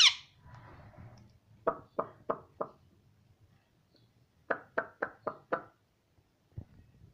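Two runs of short sharp knocks, about three a second: four, then after a pause five more, with a single dull thud near the end. The tail of a loud shrill call is cut off at the very start.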